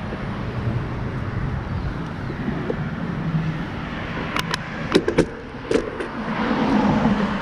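Steady low rumble of a motor vehicle running on the road, growing louder near the end, with a handful of sharp clicks about four and a half to six seconds in.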